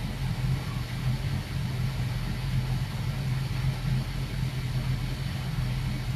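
Boat's inboard engines idling steadily during warm-up, a low, even hum.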